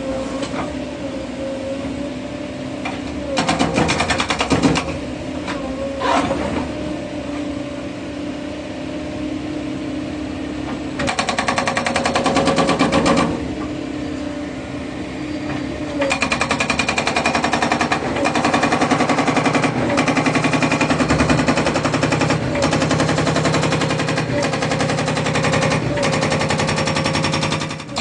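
Caterpillar 307 excavator's hydraulic breaker hammering in spells of rapid blows, with the diesel engine running steadily in between. There is a short spell a few seconds in, another about eleven seconds in, and a long run from about sixteen seconds almost to the end.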